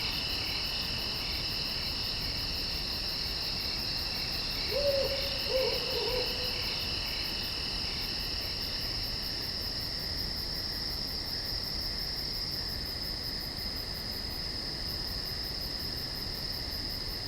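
A steady chorus of crickets and other insects trilling, with an owl hooting twice, close together, about five seconds in.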